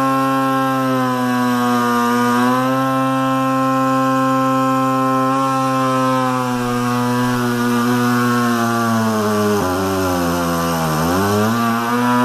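Electric motor of a cheap power tool converted into a lathe-mounted broaching tool, running with a loud, steady whine. Near the end its pitch sags sharply and then recovers as the broach cuts: the motor bogging down under load, not powerful enough for broaching.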